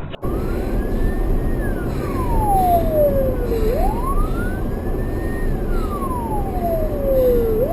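Emergency vehicle siren on a slow wail, its pitch rising quickly and then falling slowly, about once every four seconds, over a steady low rumble of traffic.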